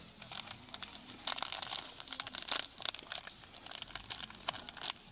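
Crinkly material being handled and crumpled: an irregular run of quick crackles and rustles.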